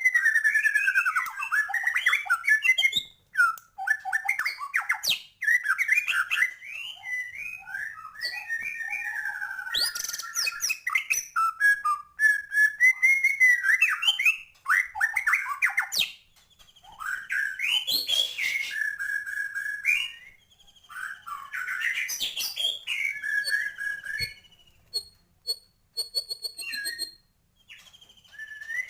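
White-rumped shama (murai batu) singing a long, varied song of whistled phrases and quick chattering notes, broken by short pauses. It is a full 'isian' song, packed with learned fragments, from a bird in full voice ('gacor').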